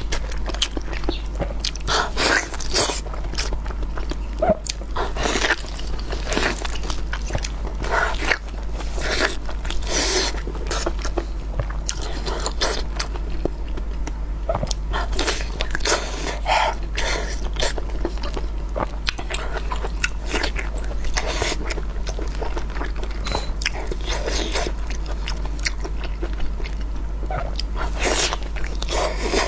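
Close-miked mukbang eating: a person biting and chewing food with irregular wet crunching and smacking throughout, over a steady low hum.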